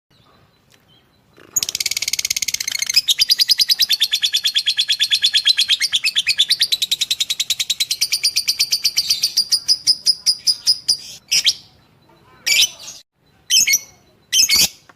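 Lovebird singing a long, rapid chattering trill of high, evenly repeated notes, starting about a second and a half in. Near the end the trill slows and breaks into about four separate sharp calls.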